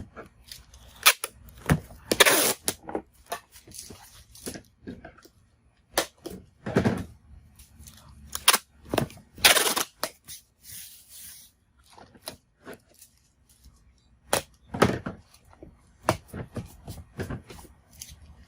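Clear packing tape being pulled off the roll in several longer ripping pulls, the clearest about 2 s and 9 s in, between irregular sharp snaps, taps and knocks as it is cut and pressed onto a cardboard box.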